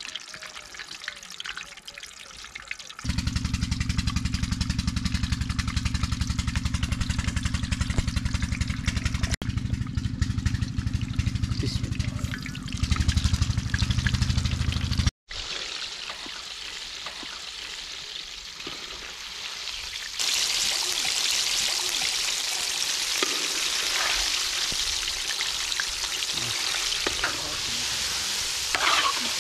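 Chicken deep-frying in hot oil, a steady sizzle. For about twelve seconds in the first half a loud low hum covers it; after a short break the sizzle comes back and grows louder about two-thirds of the way through.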